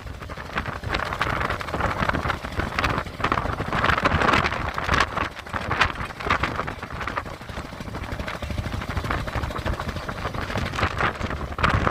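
Stormy wind buffeting the microphone in gusts over rough river water, with a steady low rumble beneath.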